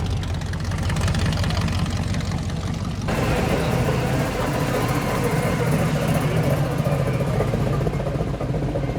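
A car engine idling steadily with a low, even hum. About three seconds in, a fuller hiss of background noise suddenly joins it.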